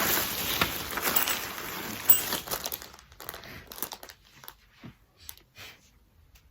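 Packaging being handled, crinkling and rustling loudly for about three seconds, then fainter scattered rustles and small clicks.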